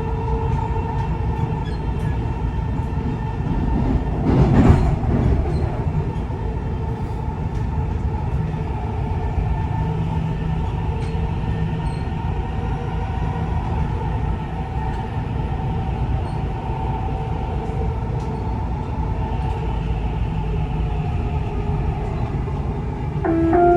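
Dubai Metro Red Line train running between stations: a steady rumble with a whining motor tone over it. It swells louder for a moment about four and a half seconds in, and a new tone sounds right at the end.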